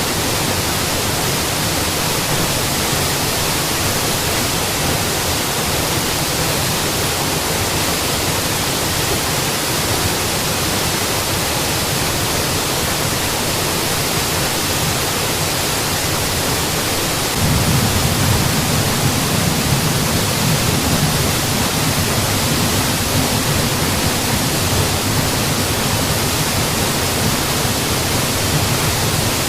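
Mountain waterfall: a steady, even rush of falling water. A little over halfway through, the deep rumble under the rush suddenly gets louder and stays that way.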